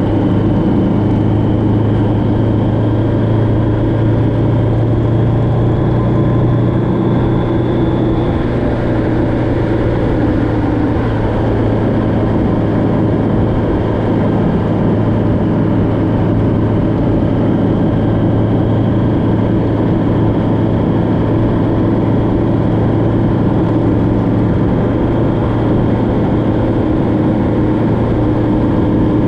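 Vehicle engine running steadily at cruising speed on the road, a constant low hum, with a faint high whine that rises briefly about a quarter of the way in, fades, and comes back near the end.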